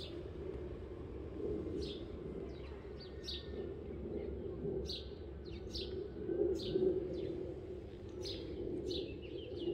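Small birds chirping, with short high chirps about once a second, over a steady low background hum.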